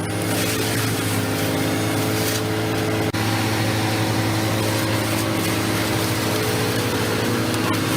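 A large machine's engine running at a steady speed. A single sharp click comes about three seconds in.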